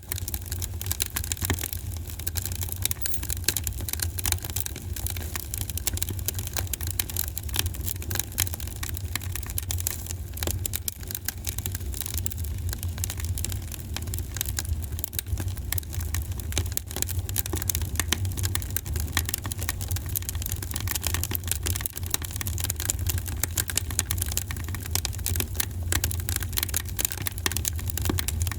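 Wood fire in a fireplace crackling steadily with many quick, irregular pops, over a constant low rumble.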